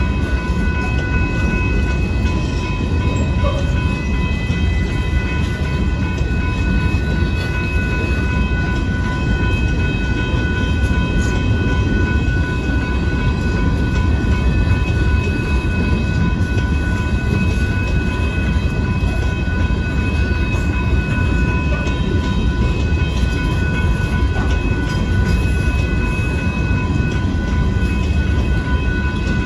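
Covered hopper cars of a Union Pacific freight train rolling past a grade crossing: a steady low rumble of steel wheels on rail, with steady high-pitched tones held over it.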